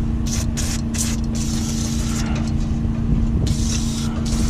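An aerosol can spraying: several quick squirts in the first second or so, then a longer spray near the end. A steady low hum runs underneath.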